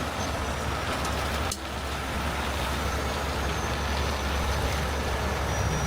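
Heavy-duty tow trucks' diesel engines running steadily under the even hiss of heavy rain.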